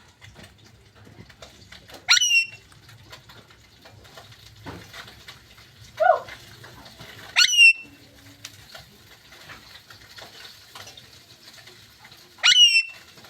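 Parrot giving three loud, sharp rising calls about five seconds apart, with a lower, falling call just before the second one.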